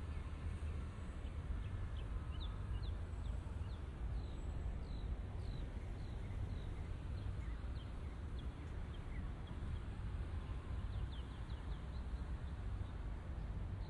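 Many short, high, downward-sliding bird chirps, a few a second, over a steady low city rumble.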